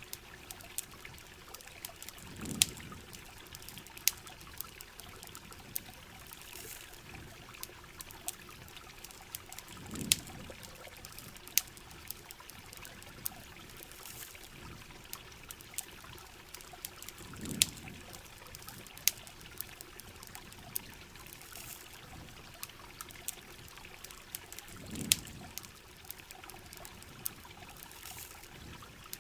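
Heavy rain with trickling water running steadily, broken by many sharp campfire crackles. A low swell comes back about every seven and a half seconds.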